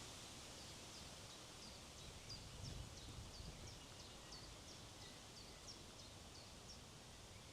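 A small bird calling a long run of short, high notes, about three a second, each dropping in pitch, over faint wind on the microphone that gusts briefly about three seconds in.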